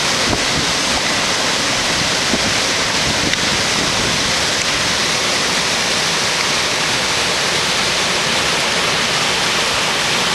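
Waterfall and river water rushing steadily, a constant loud hiss without a break.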